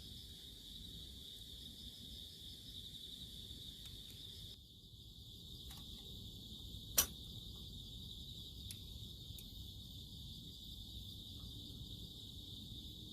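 Insects chirping steadily in a high, finely pulsing trill, like a chorus of crickets at night. A few faint clicks and one sharp crack about seven seconds in.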